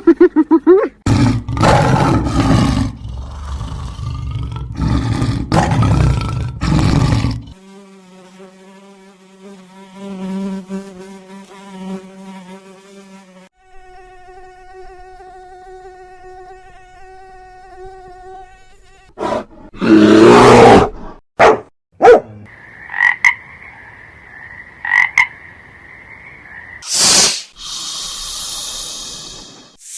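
A run of separate animal and insect sound effects, one after another: a rough noisy passage first, then two stretches of steady insect buzzing, the second higher-pitched than the first, then a few short sharp sounds and a high, pulsing chirp near the end.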